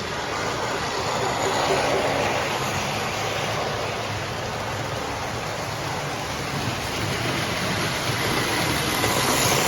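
Several O scale model trains running at once around the layout: a steady rumble and whir of the motors and wheels on the track.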